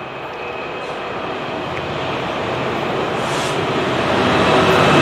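A train approaching along the track, its running noise growing steadily louder as it nears, with a few steady tones over the rumble.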